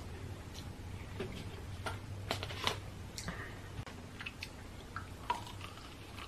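Close-miked eating sounds: wet chewing and sharp mouth clicks from someone eating noodles and fried chicken wings, with a bite into a wing near the end. A low steady hum runs underneath.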